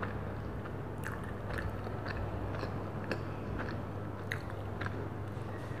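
Close-miked chewing of a soft cream-filled donut, with irregular wet mouth clicks and smacks several times a second. A steady low hum runs underneath.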